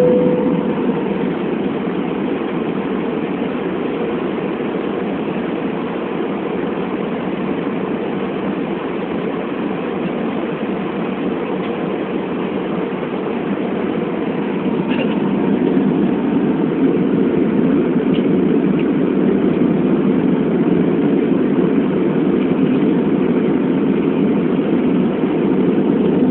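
Steady airliner cabin noise in flight: the even drone of the engines and airflow, growing a little louder about halfway through.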